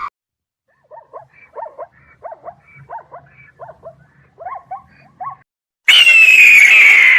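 Animal calls: a quick run of about a dozen short calls, then, near the end, a much louder long drawn-out cry that starts abruptly.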